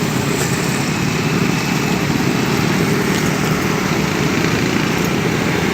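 Motorcycle engine running steadily while riding along, heard from the rider's position.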